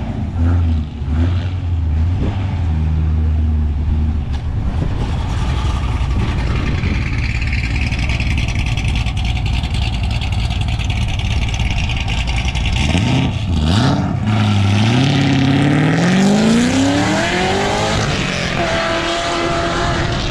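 Car engines at a car meet. There is a low, steady engine rumble at first. About two-thirds of the way through, one engine speeds up, its pitch climbing for several seconds, then it holds a higher steady note near the end.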